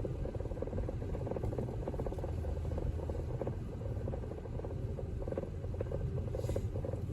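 Steady road noise inside a moving car: a low rumble with a fine, rapid crackle from the tyres on a snow-covered street, and one short hiss near the end.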